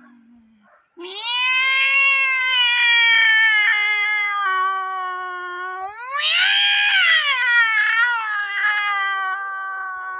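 A person imitating a cat fight with their voice: one long, drawn-out yowl that starts about a second in, swoops up in pitch near the middle and sinks back down.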